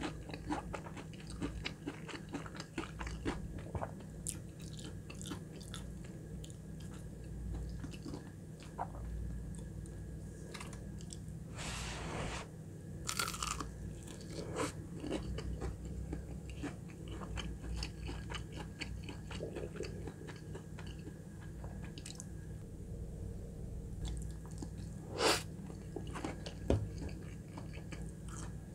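Close-miked chewing and crunching of crispy fried chicken nuggets and creamy pasta: steady crackly bites and wet mouth sounds, with a few louder ones near the middle and again about twenty-five seconds in.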